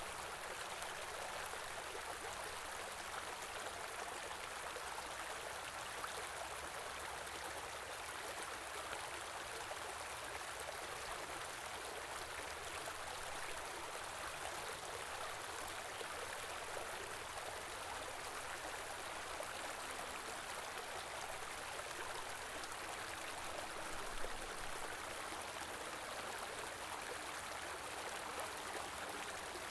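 Small river flowing steadily through a snowy landscape, its water rushing and babbling without a break.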